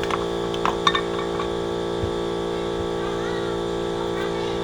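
Air compressor running with a steady electric-motor hum, with a few light clicks in the first second.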